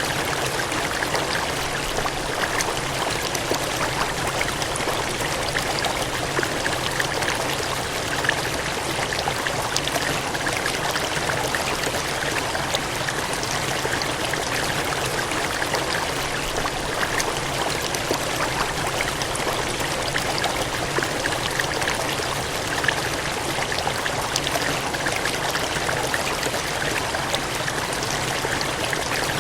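Gushing, cascading water: a steady rushing flow with fine splashing detail, unchanging throughout.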